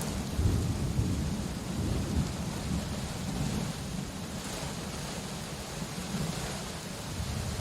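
Steady rain falling, with a low rumble of thunder underneath that swells and fades.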